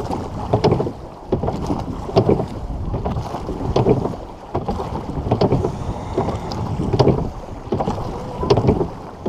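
Rowing shell underway with the crew rowing: a knock or clunk from the oars and rigging at each stroke, about once every second and a half, over rushing water and wind on the microphone.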